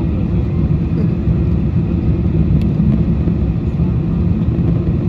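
Steady low rumble of a Boeing 747-400's cabin noise during the approach, airflow and engine drone heard from inside the economy cabin.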